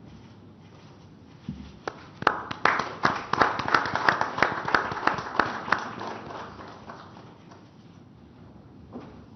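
Applause from the audience, starting about two seconds in, with one nearby pair of hands clapping about three times a second over the spread-out clapping of the room. It fades out by about seven seconds in.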